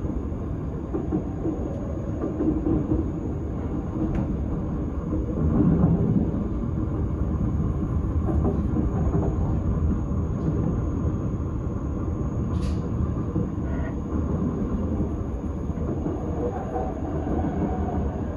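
S-Bahn train running along the line, heard from inside the carriage: a steady rumble of wheels on track, with a faint steady high whine above it. It swells briefly about five seconds in, and there is a single short click later on.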